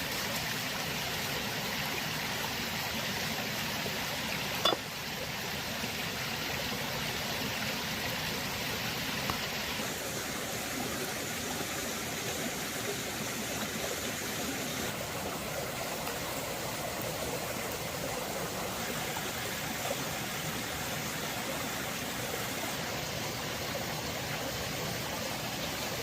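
Steady rush of flowing water, like a stream. A single sharp click comes about five seconds in, with fainter ticks later.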